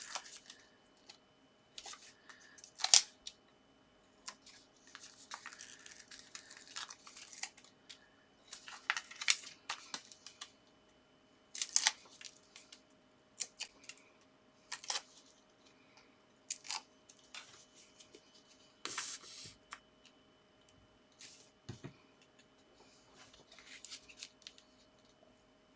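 Adhesive foam pads being peeled off their backing paper and pressed onto a paper card topper: irregular short peels, paper rustles and sharp clicks, with a soft knock on the table near the end.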